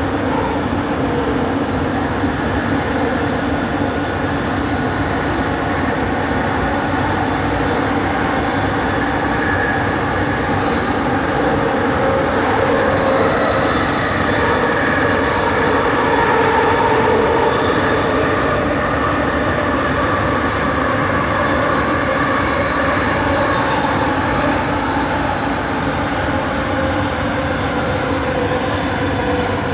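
Bombardier Innovia ART 200 metro train running, heard from inside the car: a steady running rumble with several motor tones, from its linear induction motors, sitting above it and drifting slightly in pitch as the speed changes. It gets a little louder about halfway through.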